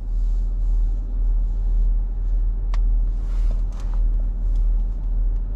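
A parked car's engine idling, heard from inside the cabin as a steady low hum, with two light clicks about three and four seconds in.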